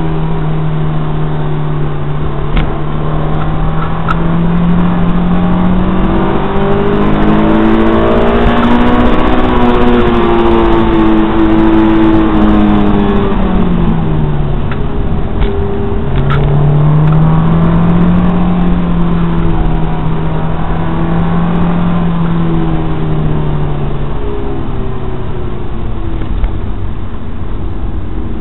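Honda S2000's 2.0-litre four-cylinder engine heard from inside the cabin while driving, its revs climbing for about ten seconds and then falling away. After a short break about halfway through, it picks up again at a lower pitch, holds steady, and drops back near the end.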